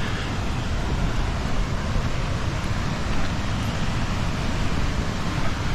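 Waterfall: a steady, heavy rush of falling water.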